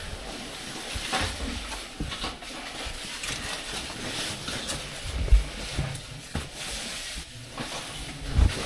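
Shuffling and scraping of a person crawling through a tight cave passage, clothing and gear rubbing on rock, with two dull thumps about five and a half and eight and a half seconds in.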